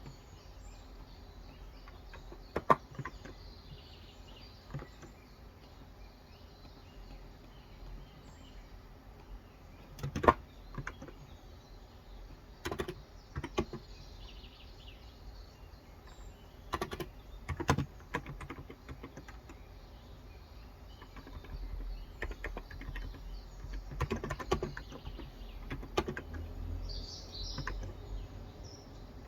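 A lull in typing: a handful of scattered single keystrokes on a Cox Endeavor 35 g electrostatic-capacitive tenkeyless keyboard, over steady low background noise and faint birdsong.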